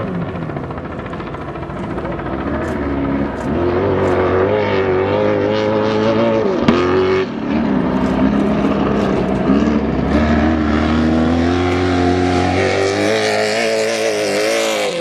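Race trucks' engines running hard, the pitch climbing and falling over and over as they are revved and lifted off. There is a brief drop about seven seconds in.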